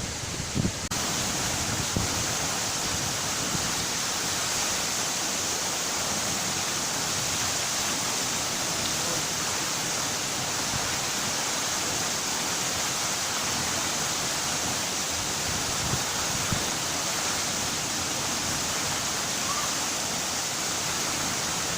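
A high waterfall pouring into its pool: a steady, even rush of falling water.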